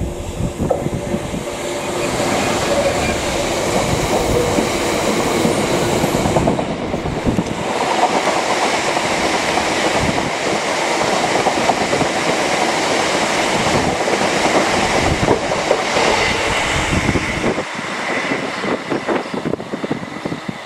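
A Class 66 diesel locomotive and its long train of loaded aggregate box wagons passing close by. There is steady wheel-on-rail running noise with a rapid clatter of wheels over the rail joints, growing louder about two seconds in and easing off near the end.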